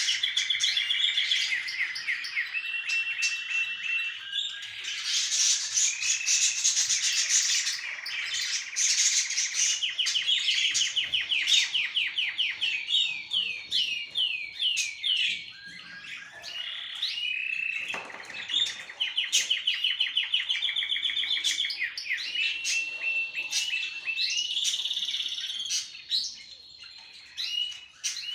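Small pet birds singing: long runs of rapid trills and quick repeated chirping notes, one song phrase after another.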